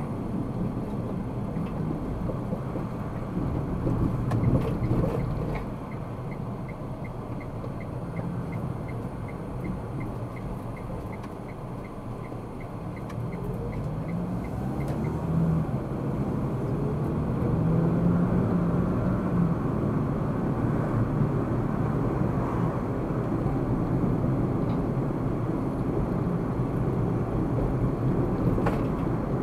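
Car driving with steady engine and road rumble. From about six seconds in, a turn signal clicks evenly about two and a half times a second for roughly nine seconds.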